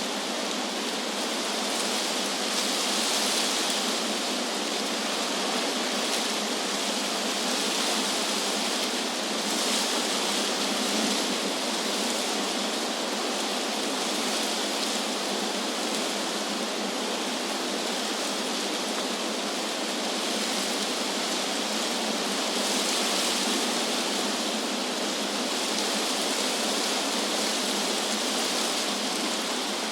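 Wind blowing through tree leaves: a steady rushing hiss that swells gently a few times, with no distinct gusts or other events.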